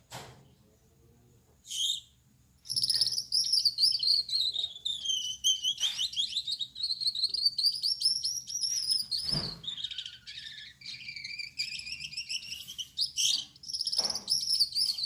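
Male Gouldian finch singing: a brief call about two seconds in, then from about three seconds a continuous buzzy, warbling song that wavers up and down in pitch, with a few short clicks mixed in.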